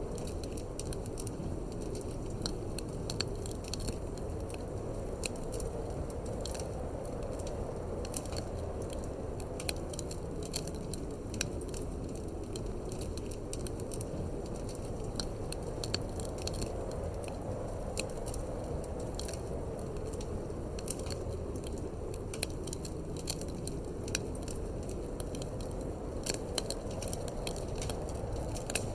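Wood fire crackling with irregular sharp pops and snaps, over a steady low rush of wind.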